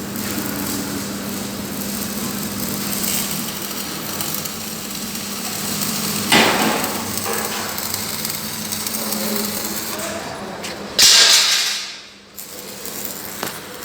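Metalworking noise from fabricating a dump truck body: a steady hum under continuous workshop noise, a short swell about six seconds in, and a loud hissing burst about eleven seconds in that fades within a second.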